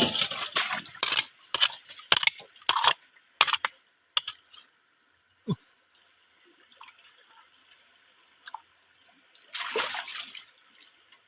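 Shallow water splashing and sloshing in a quick run of short splashes, then a lull, then a longer splash near the end.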